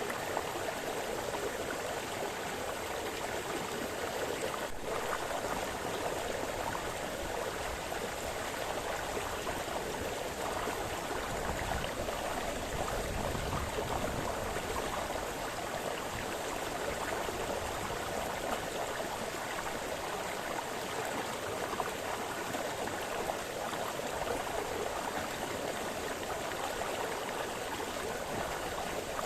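Small brook splashing and babbling over stones, a steady flow of water sound.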